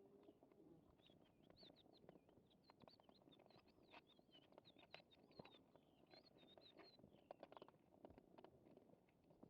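Faint small birds chirping and twittering, over many scattered soft clicks and crunches from cats chewing their food.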